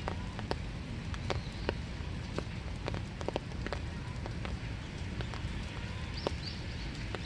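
Winter rain falling in a small wood, a steady hiss with irregular drops striking surfaces close by, each a sharp tap, several a second.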